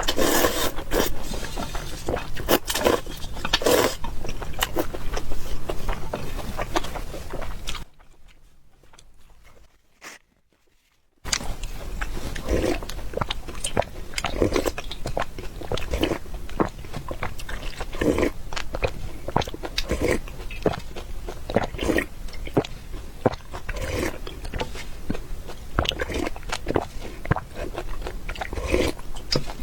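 Close-up eating sounds: irregular chewing, biting and wet mouth noises in quick succession. The sound drops out for about three seconds partway through.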